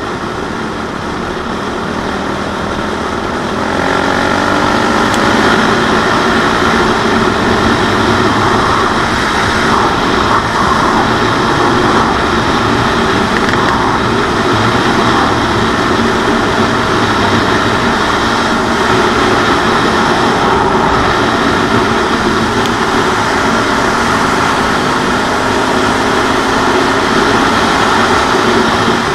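CCM 644 R30 supermoto's single-cylinder four-stroke engine running under way. It picks up revs about four seconds in, then holds a steady cruise.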